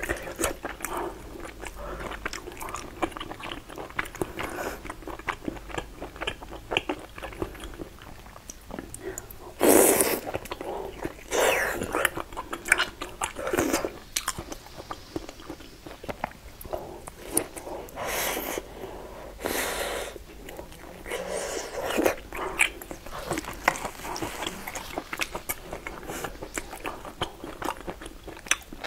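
Close-miked eating: biting and wet chewing of soft, sauce-glazed meat, with many small mouth clicks and a few louder wet bursts.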